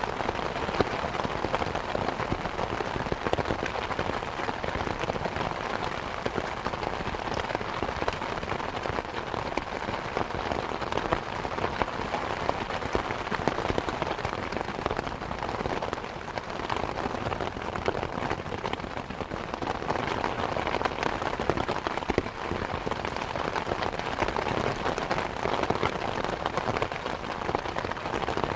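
Steady rain falling on surfaces, a dense patter of many drops with small swells in intensity.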